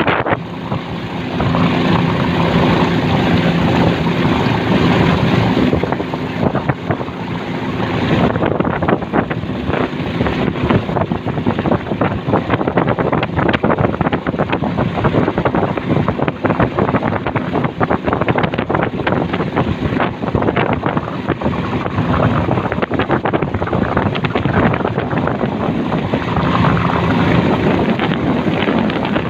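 A small motorboat's engine running steadily under way, with wind noise buffeting the microphone. The engine's steady hum stands out most in the first few seconds and again near the end.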